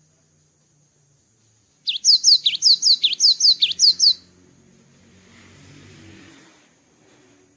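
Cinereous tit (gelatik batu) singing a fast, loud burst of about ten sharp down-slurred whistled notes, lasting about two seconds and starting about two seconds in. The song comes from a bird just out of its moult.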